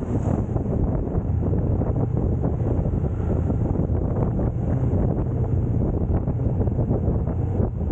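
Steady low rumble of a car being driven, road and engine noise picked up by a dashcam microphone.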